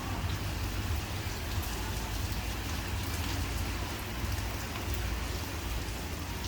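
Torrential rain pouring down: a steady, even hiss with a low rumble underneath.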